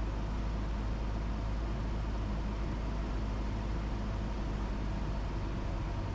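Cessna 172's four-cylinder piston engine and propeller droning steadily inside the cabin on final approach, a constant low hum under a broad hiss.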